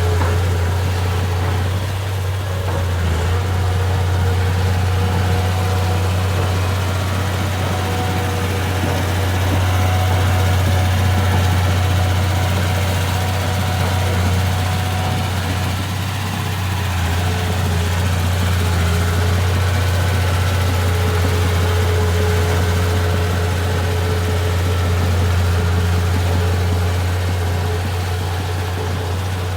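Bulldozer's diesel engine running at a steady speed, a deep even hum with fainter steady tones above it and no revving.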